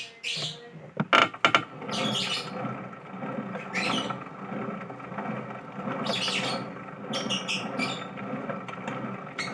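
Small pet cage birds chirping and squawking in short high-pitched bursts every second or two over a steady background hum, with a few sharp clicks about a second in.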